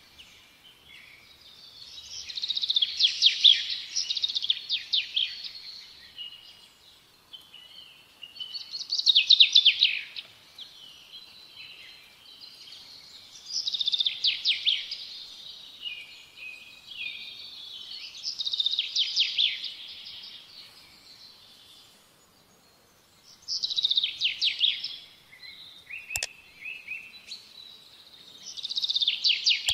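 A songbird singing in short phrases of rapid high notes, about one phrase every five seconds.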